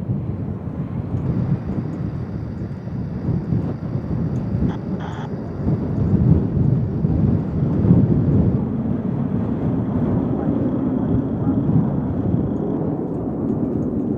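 Low, uneven rumble of an Airbus A380-841's Rolls-Royce Trent 900 jet engines heard from a distance, with a faint steady high whine over it.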